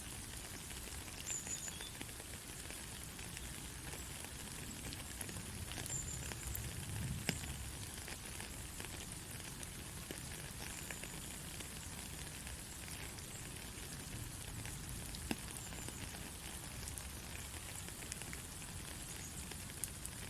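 Gentle steady rain: an even hiss of falling rain with scattered individual drops ticking, and a few louder single drips, about seven and fifteen seconds in.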